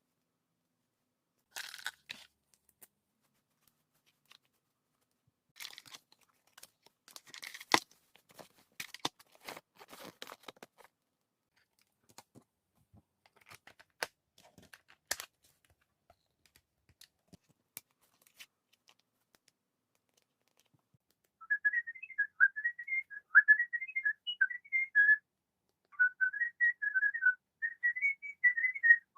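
Scattered clicks, crinkles and tearing of toy packaging being opened. About two-thirds of the way through, the electronic toy bird starts chirping: a fast, warbling run of high tweets with a short break partway.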